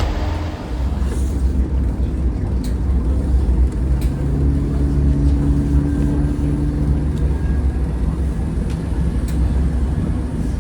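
Train heard from on board: a steady low rumble, with a humming tone from about four to seven seconds in.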